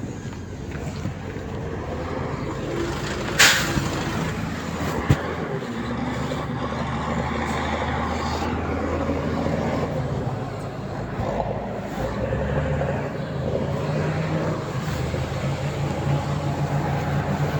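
Diesel engine of heavy earthmoving machinery running steadily. There is a short sharp hiss about three and a half seconds in, and a sharp click about five seconds in.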